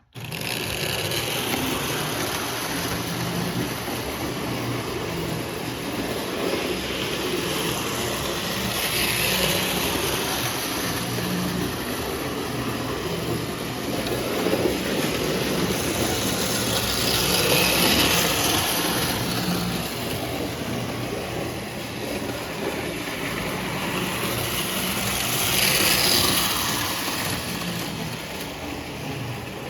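Lionel No. 8 standard gauge toy train running laps on its track: a steady motor and wheel rumble that swells each time the train passes close, about every eight or nine seconds. Straight out of the box, the owner reckons it probably needs a little service.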